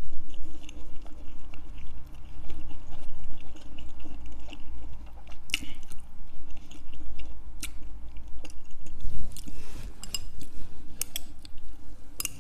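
A person chewing a mouthful of ramen noodles close to the microphone, wet and irregular, with a few sharp clicks scattered through.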